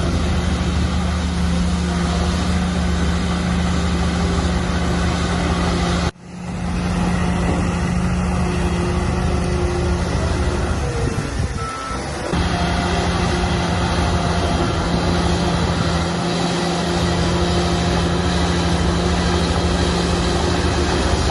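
Shantui bulldozer's diesel engine running steadily under load. The sound cuts out abruptly about six seconds in and swells back, and there is a short beep about halfway through.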